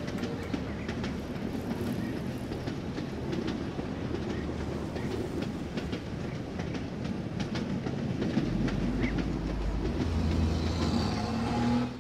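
A train running along the track: a steady rumble with the wheels clicking over rail joints. The rumble grows deeper and louder about two-thirds of the way through.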